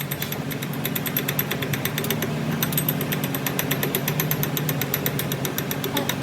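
A machine runs steadily with a low hum, overlaid by fast, even mechanical ticking at about ten ticks a second.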